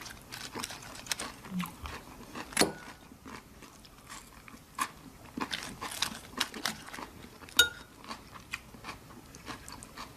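Close-up biting and crunching of raw vegetables: irregular crisp crunches with chewing between them, two louder bites about two and a half and seven and a half seconds in.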